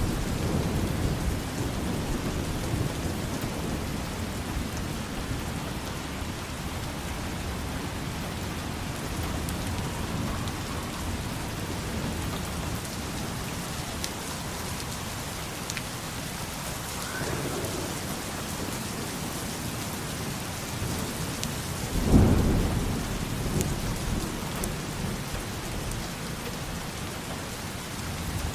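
Steady rain falling, with low rumbling thunder under it; about three-quarters of the way through, a louder thunderclap breaks in suddenly and rolls away over a couple of seconds.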